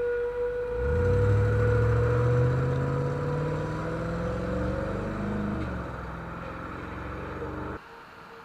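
A vehicle pulling away, its engine pitch rising as it accelerates, over a steady high squeal that fades out around five seconds in; the owner takes the noise for brakes worn down to metal on metal. The sound cuts off abruptly near the end.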